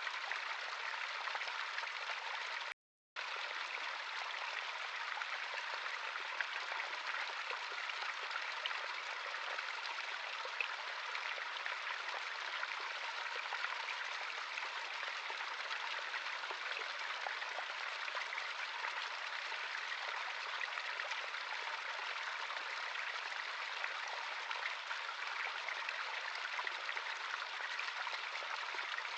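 Running water of a natural stream, a steady rush flecked with small splashes. The sound cuts out completely for a moment about three seconds in.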